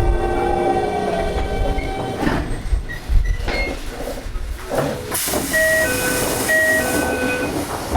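Interior running sound of a Toei 5300-series train slowing down: the motor whine fades and slides lower, with knocks and rattles underneath. About five seconds in comes a sudden hiss of air, then a two-note electronic chime sounded twice.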